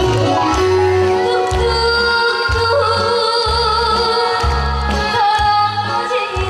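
A woman singing live with strong vibrato over amplified backing music with a steady, pulsing bass beat.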